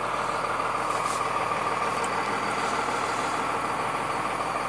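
Cummins 5.9-litre inline-six turbo diesel of a 1998 Dodge 3500 idling steadily and evenly.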